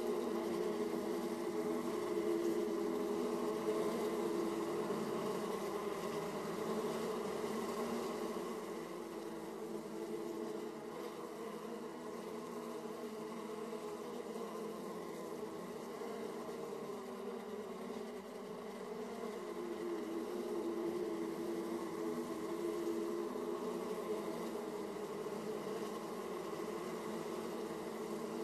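Honeybees buzzing at a hive entrance: a dense, continuous hum of many bees flying in and out, swelling a little about two-thirds of the way through.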